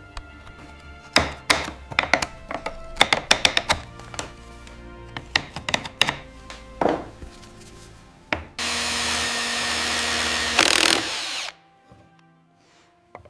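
A quick run of sharp taps and clinks of hand tools on wood, then a power drill running steadily for about three seconds before it cuts off, over soft background music.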